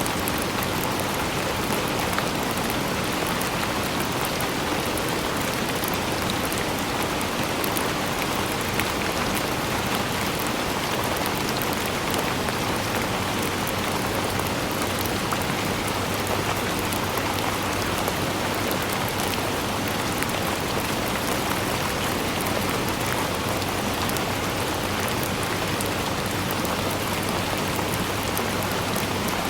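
Steady rain falling, with a dense even hiss and fine scattered drop taps.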